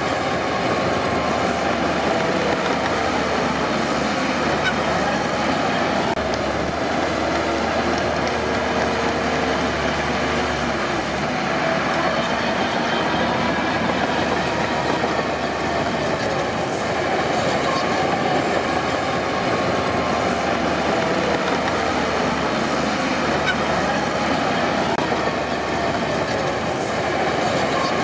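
Crawler bulldozer at work: its diesel engine running steadily under the continuous clatter of its steel tracks.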